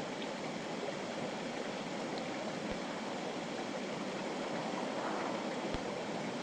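Clear mountain river flowing, a steady rushing of water over rocks.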